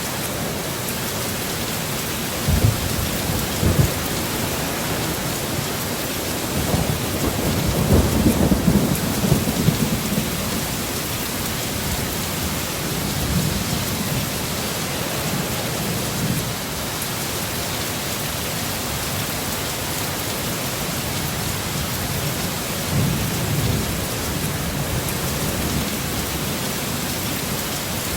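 Steady heavy rain with rolling thunder: low rumbles come and go several times, the longest and loudest about a third of the way through.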